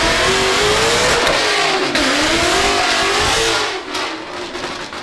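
A car's engine revving hard and loud, its pitch rising and falling, over a dense rushing hiss; it fades about four seconds in.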